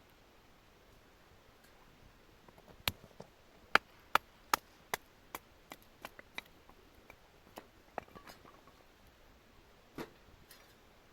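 Firewood being split by batoning: a wooden baton strikes the spine of a knife driven into the log, a run of sharp knocks about two or three a second. The knocks are loudest early in the run, then come fainter and further apart.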